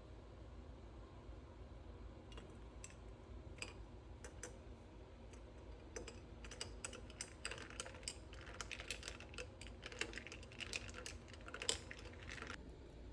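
Rapid, irregular light clicks and taps, a few scattered ones starting about two seconds in, then fast dense runs from about six seconds that stop shortly before the end.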